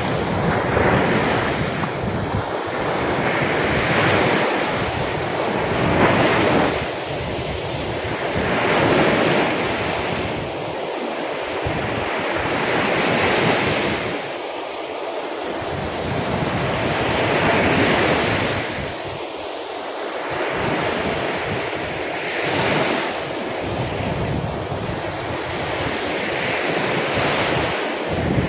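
Sea surf breaking and washing up a beach in stormy weather, swelling and ebbing every few seconds, with wind buffeting the microphone.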